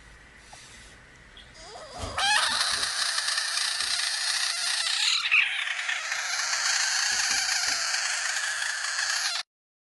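A loud, dense mass of many overlapping animal calls, coming in sharply about two seconds in after a brief rising sweep and cutting off suddenly near the end.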